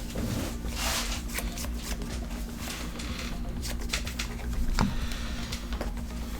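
Trading cards being handled and shuffled: irregular soft clicks and rustles of card stock, over a steady low hum.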